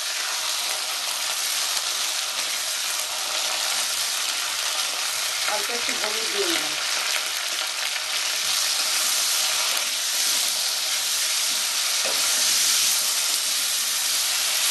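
Cauliflower florets sizzling steadily as they fry in hot oil and ghee in a kadai, stirred and turned with a metal spatula.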